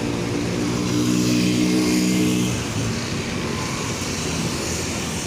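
Scania K360IB bus's diesel engine running under load, its note strongest around the middle, then easing off about two and a half seconds in, leaving a steady rumble.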